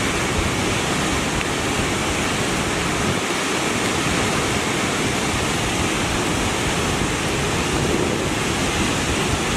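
A river in flood rushing past: a loud, steady wash of fast, high water.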